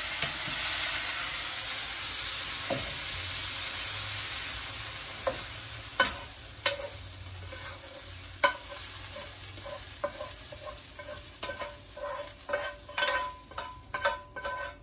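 Chicken pieces sizzling in hot oil in a wok as they are lifted out with a metal utensil; the sizzle fades over the first half, and metal clinks and scrapes against the pan and dish, a few at first and then many in quick succession near the end, some with a short ring.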